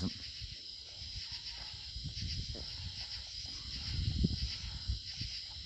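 Night-time insect chorus, crickets or katydids, giving a steady high-pitched hiss. Under it is an uneven low rumble of noise on the microphone, swelling a little around the middle.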